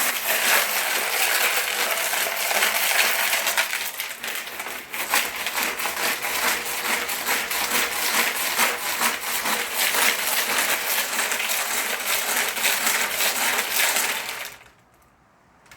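A handful of small steel nuts rattling and clattering inside a 1973 Honda CL350's steel gas tank as the tank is shaken, scouring rust and scale off the inside walls. It is a dense, continuous metallic clatter of many small hits that stops abruptly shortly before the end.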